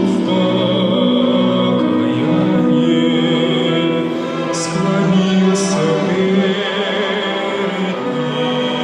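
Slow hymn played by a chamber orchestra with singing, long held notes changing every second or two.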